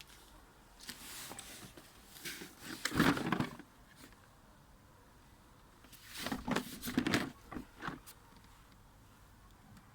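Packaging being handled and opened: rustling, scraping and knocks in two clusters, one about a second in and running to about three and a half seconds, the other around six to eight seconds in.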